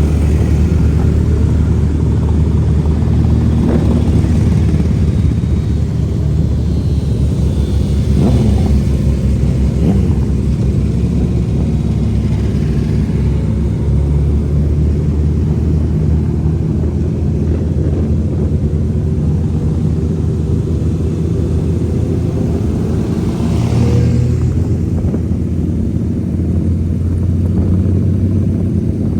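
Motorcycle engine running steadily while riding, a constant low drone. Other vehicles pass close by about eight seconds in and again near the end.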